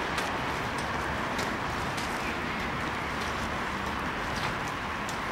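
Steady hiss of rain with running river water beneath a footbridge. Footsteps on the wet deck tick faintly in an even walking rhythm, a little under two steps a second.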